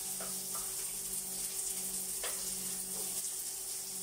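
Garlic and ginger frying in oil in a wok, a steady sizzle, with a few light taps as a wooden spatula scrapes the ginger off a plate into the pan.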